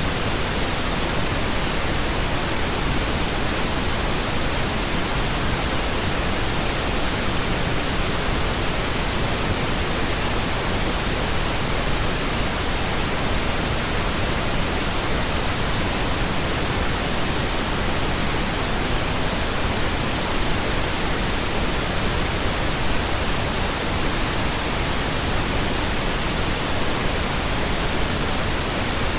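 Steady, unchanging pink noise: an even hiss spread across all frequencies.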